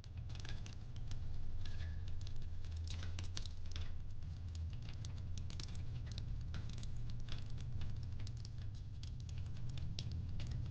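Wood fire crackling: a dense, irregular run of small pops and snaps over a steady low rumble.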